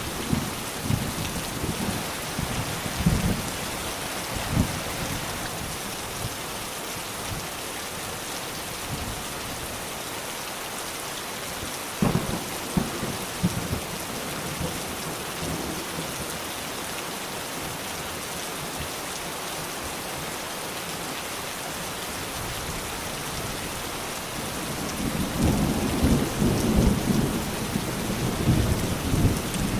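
Steady rain falling, with low rumbles of thunder: a sudden clap about twelve seconds in and a longer rumble near the end.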